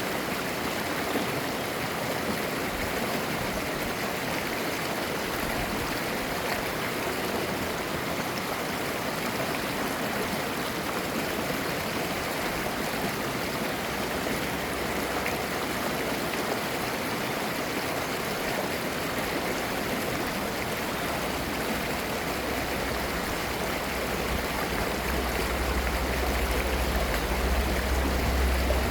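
A mountain valley stream babbling over rocks: a steady rush of water. A low rumble swells in near the end.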